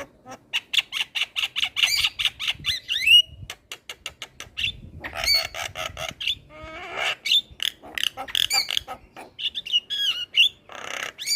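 Javan myna singing vigorously: a fast run of clicks with whistles, then harsh squawking calls mixed with sliding whistles.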